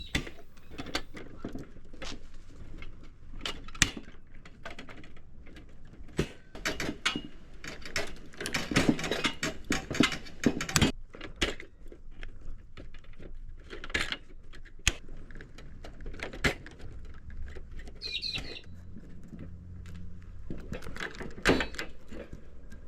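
A cheap hand pop rivet gun squeezed over and over, giving irregular sharp clicks and snaps as pop rivets are set in an aluminium frame and their mandrels break off.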